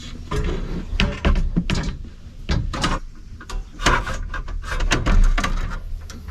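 Plywood shelf boards knocking and scraping against shelf racks as they are slid and set into place, a string of sharp knocks with rubbing between them.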